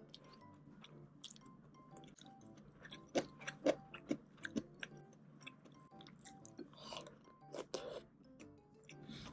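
Close-up eating sounds of a person chewing, with a cluster of sharp clicks about three to four and a half seconds in and two short noisy sounds near the end, over soft background music.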